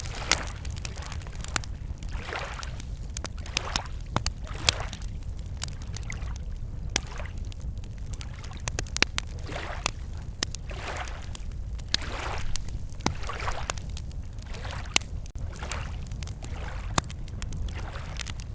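Small lake waves lapping against the shore in soft swells every second or two, with the sharp, scattered crackles of a wood campfire over them and a steady low rumble underneath.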